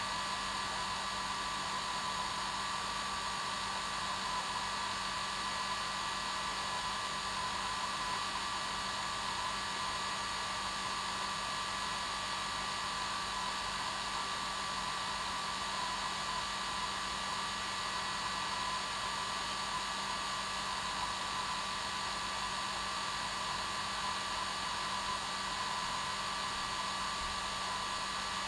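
Hair dryer running steadily on its normal setting: a constant rushing airflow with a steady motor whine.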